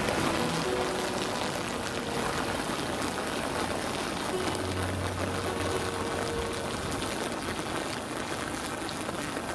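Steady rushing of water, with faint background music notes underneath.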